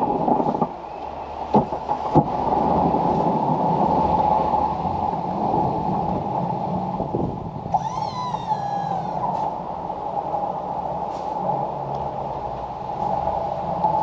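An engine running steadily with a constant high whine, two sharp knocks about two seconds in, and a brief falling squeal about eight seconds in.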